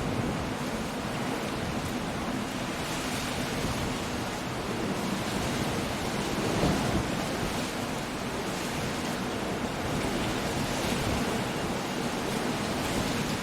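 Coastal storm: sea waves surging and breaking, with wind and rain, making a steady rushing noise that swells slightly about halfway through.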